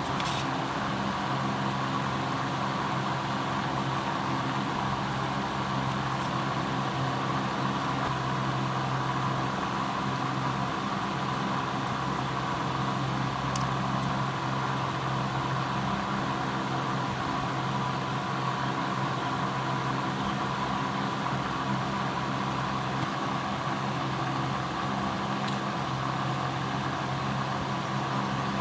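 A small electric motor running steadily with an even hum and a higher whine, and a faint click a couple of times.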